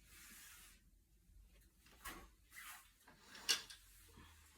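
Handling noises while something is adjusted to let in more light: a brief rustle, then a few light clicks and knocks, the loudest about three and a half seconds in.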